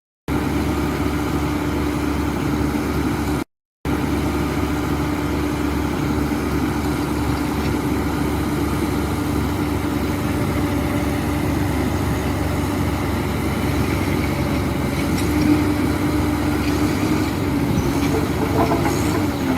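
Diesel engine of a heavy earthmoving machine running steadily with a held drone, cutting out briefly about three and a half seconds in. A few knocks and cracks come near the end.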